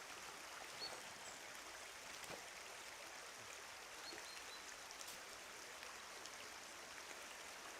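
Faint, steady running water, like a small stream trickling, with a couple of brief faint high chirps.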